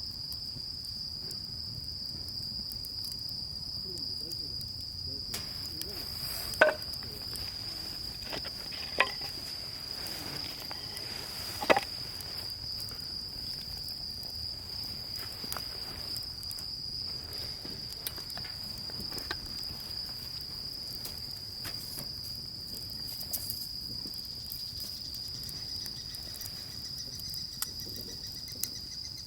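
Crickets trilling in one steady, high, unbroken chirr, with three sharp clicks or knocks in the first half.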